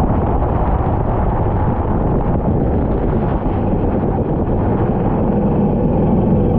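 Racing kart engine running steadily at speed, mixed with wind noise on the microphone.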